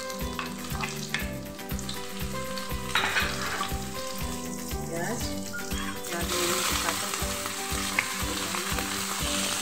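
Hot oil sizzling in a kadhai as chopped ingredients and sliced onions are added and stirred with a spatula; the sizzle grows louder and fuller about six seconds in. Background music with a regular beat runs underneath.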